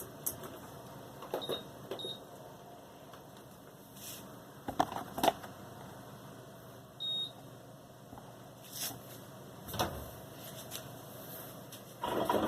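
Scattered light clicks and knocks from handling, with a few short high electronic beeps; the clearest beep comes about seven seconds in.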